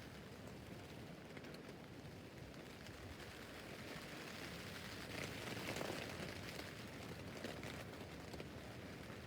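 Rain falling on a tent roof: a steady hiss of drops with fine ticks, growing louder for a couple of seconds around the middle.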